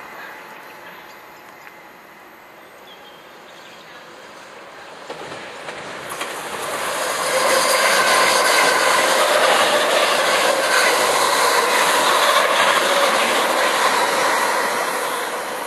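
Electric multiple-unit passenger train approaching and passing close by, its wheels clattering over rail joints and points. The sound builds from about six seconds in, stays loud while the carriages go past, and fades near the end.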